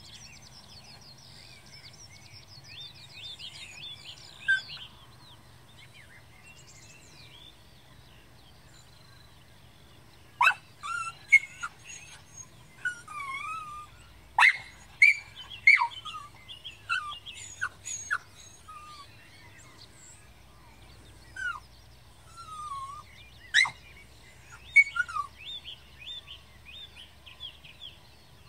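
Wild birds calling: soft, fast twittering trills a few seconds in, then from about ten seconds in, loud, sharp, short chirps, many with a quick pitch glide, coming in irregular clusters for about fifteen seconds.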